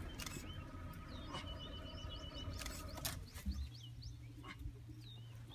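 Small birds chirping in many short, repeated calls over a low steady rumble, with a few faint clicks.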